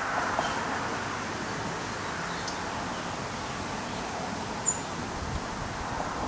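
Steady outdoor background hiss, with one short, high chirp about two-thirds of the way through.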